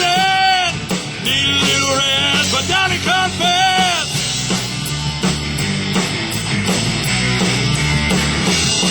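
Rock band playing with a full drum kit. Over the first four seconds a wordless voice or lead line bends up and down in pitch, then the band carries on without it.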